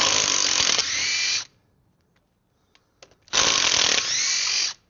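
Impact gun with a 17 mm socket undoing bolts on a Land Rover Defender 90's front hub, in two bursts of about a second and a half each.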